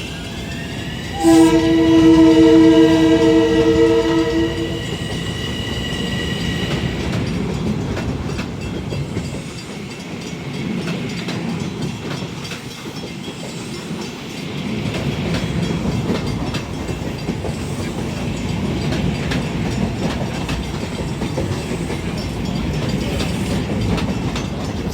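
A Long Island Rail Road train passing close by. About a second in it sounds a loud horn blast of several notes held together for about three and a half seconds, over a rising high whine that levels off and fades by about seven seconds in. After that comes the steady rumble and clatter of the train's cars rolling along the rails.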